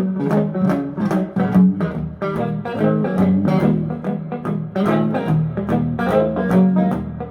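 Instrumental passage of a song: guitar playing a steady run of plucked notes over a bass line, with no singing.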